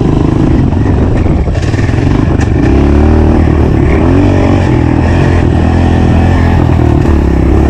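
Honda CRF 125 dirt bike's single-cylinder four-stroke engine running under load, the revs rising and falling through the gears as it is ridden, with a few quick rev swings about three to four seconds in.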